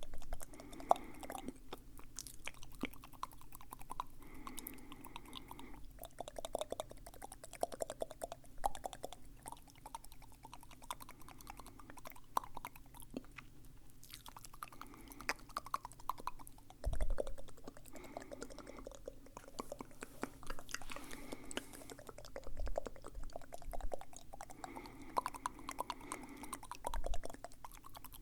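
Close-up wet mouth sounds made into a microphone for ASMR: a steady run of small clicks and smacks from tongue and lips.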